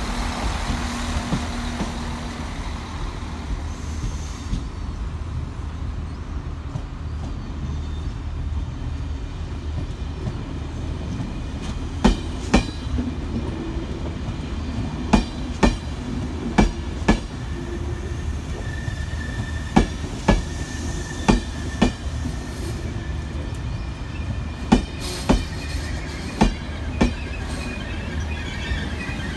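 Passenger coaches rolling slowly over pointwork: a steady low rumble, then from about twelve seconds in, wheelsets clicking in close pairs over rail joints and crossings, the pairs a second or two apart, with thin wheel squeal a little after twenty seconds and again near the end.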